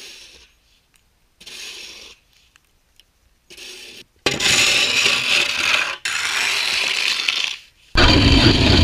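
Snow shovel scraping snow off pavement, heard in several short chopped-up stretches that start and stop abruptly, loudest in the second half.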